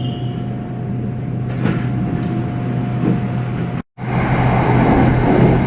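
Running noise inside a Bangkok SRT Red Line electric commuter train at speed: a steady low hum with a faint steady whine above it. About two-thirds of the way through, the sound drops out completely for a split second, and the running noise that follows is louder.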